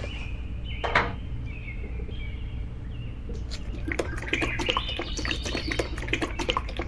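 Small birds chirping, over a steady low hum. There is a sharp tap about a second in, and a busy run of light clicks and taps from about three and a half seconds to near the end.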